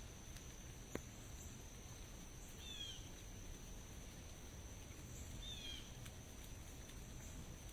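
Faint outdoor ambience: a bird gives two short downward-sliding calls about three seconds apart, over a steady high-pitched insect-like drone and a low rumble, with a single click about a second in.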